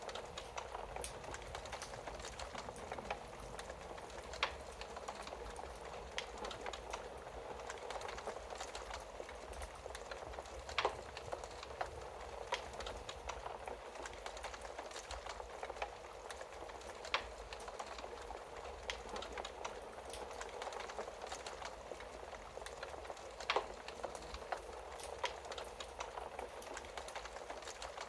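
Wood fire crackling in a fireplace: a steady hiss of burning with many small pops, and a louder sharp snap about every six seconds.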